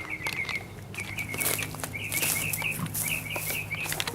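A small songbird chirping a rapid series of short, repeated notes, several a second, over a faint steady low hum.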